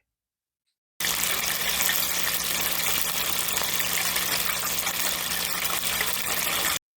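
Chicken wings frying in a deep fryer: a steady hiss of frying oil. It starts about a second in and cuts off abruptly just before the end.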